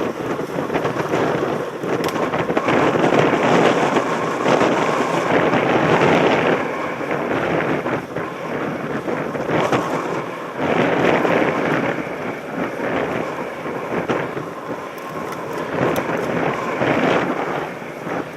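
Wind rushing over a helmet-mounted camera's microphone, mixed with tyre and gravel noise from a mountain bike being ridden. The noise swells and eases every few seconds.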